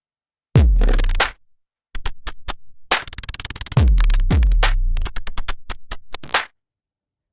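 Electronic music with a drum-machine beat: rapid clicky hits and deep bass kicks that drop in pitch. The beat stops dead into silence several times and cuts back in.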